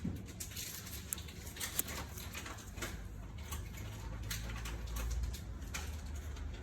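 Small scattered clicks and scrapes from a blade working a toenail, over a steady low hum that swells briefly about four seconds in.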